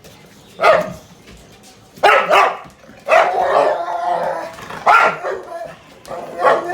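Dogs barking in about five separate bursts, one of them longer and drawn out in the middle.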